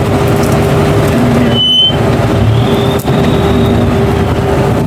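Off-road 4x4's engine running steadily, with a brief dip in sound about two seconds in and another a second later.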